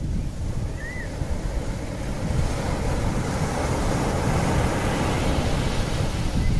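Wind buffeting the microphone outdoors: a loud, uneven rumbling noise that swells a little after the first couple of seconds. A single short bird chirp comes about a second in.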